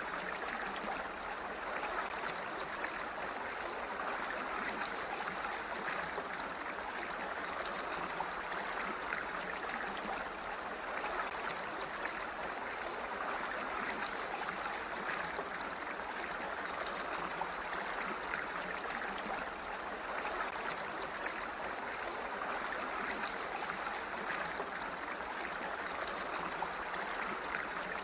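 Water flowing steadily: a continuous, even rushing with no pauses or changes.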